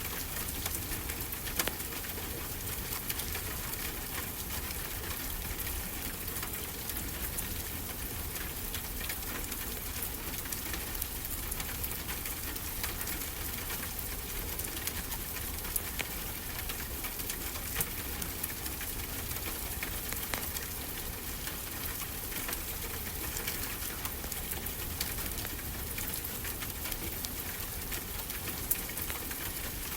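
Fireplace crackling, with scattered sharp pops, over a steady rush of ocean waves.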